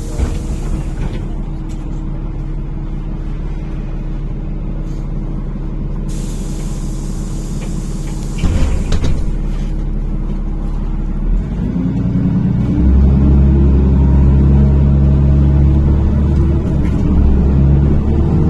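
NefAZ-5299 city bus heard from inside: the engine idles at a stop, with a hiss of compressed air around 6 to 9 s in, then from about 12 s the engine works harder and its note rises and steadies as the bus pulls away.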